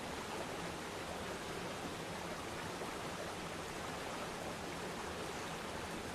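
Waterfall pouring, a steady even rush of falling water with no change in level.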